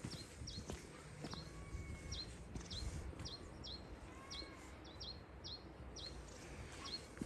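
A small bird repeating a short, high, hooked chirp about twice a second, over soft footsteps on a path and an open-air background hiss.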